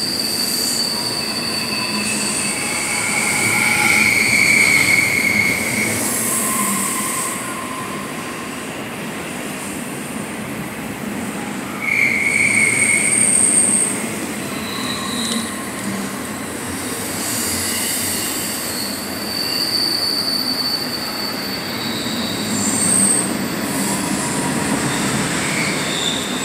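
Train passing close by: a steady rail rumble with the wheels squealing in several high tones that rise up and fade away again, the loudest squeals about 4 and 12 seconds in.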